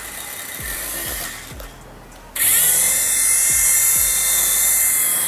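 Toy RC helicopter's small electric rotor motor whining with a high hiss, suddenly much louder about halfway through. A low thudding beat runs underneath.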